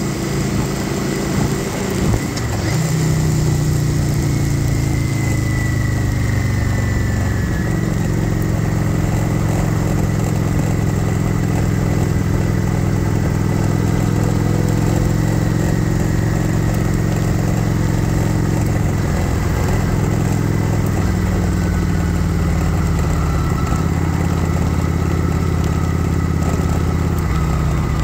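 Kawasaki Vulcan 900 Classic SE's V-twin engine running on the move. Its note drops about two seconds in and slides lower for a few seconds, then holds steady at a cruise.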